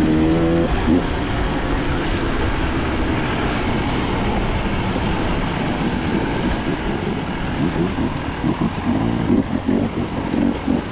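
Dirt bike engine working hard on a steep rutted hill climb, with a brief rising rev at the start, then rough, uneven running under heavy noise that turns choppy in the last few seconds.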